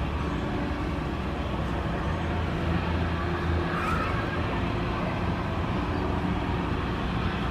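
Steady low engine rumble in open-air background noise, with faint humming tones that come and go.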